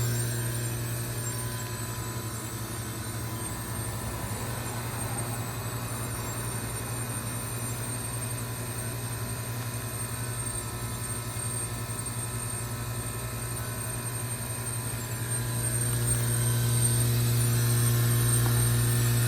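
2005 York Olympian (Latitude 10) heat pump outdoor unit running in its defrost cycle, a steady low hum. It eases off right at the start and swells back up about three-quarters of the way through.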